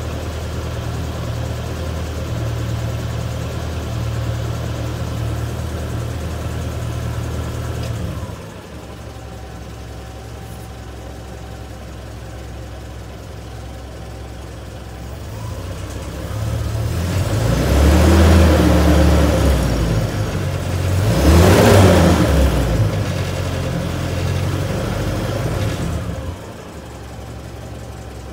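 Older vehicle engine idling steadily, dropping to a slower idle about a third of the way in. It is then revved up twice, the second rev a little higher, and settles back to idle near the end.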